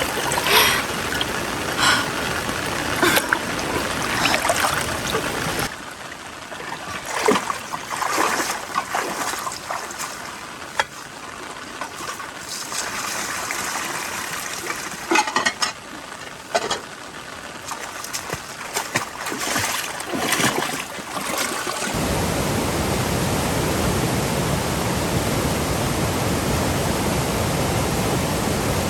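Floodwater trickling and sloshing, with scattered splashes. About three-quarters of the way through it gives way to a steady, even rush of water.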